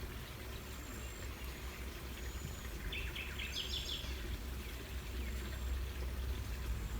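Outdoor woodland ambience under a steady low rumble, with a songbird giving a quick run of about eight short chirps that step upward in pitch, three to four seconds in. Faint, thin, high whistled notes come and go.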